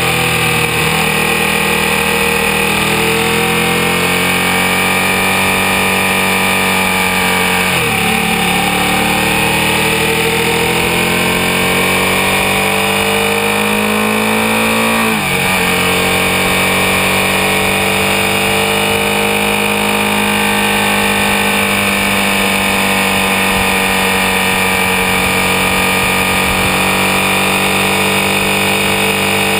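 Ducati 1199 Panigale's 1198 cc Superquadro V-twin engine heard from on board, pulling hard under acceleration. It eases off at first, then climbs, with two quick upshifts about eight and fifteen seconds in where the pitch drops sharply and rises again, then holds fairly high at speed.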